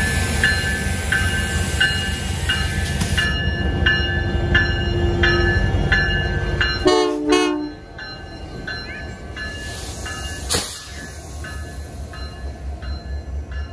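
A train passing with a bell ringing steadily, about one and a half strokes a second, over the train's rumble. About halfway through the horn sounds two short blasts, then the rumble drops away and a low rhythmic clacking of wheels runs near the end.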